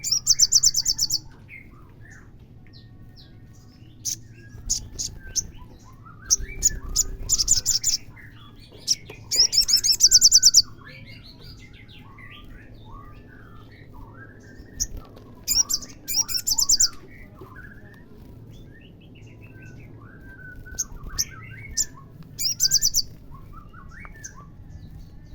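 Olive-backed sunbird song: five loud bursts of very rapid, high trilling, each about a second long, with fainter short chirps and sliding whistles between them.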